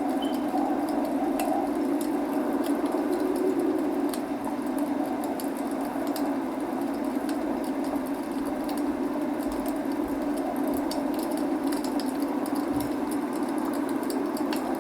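Wood fire burning in a fireplace, crackling with scattered sharp pops over a steady rushing sound of rain.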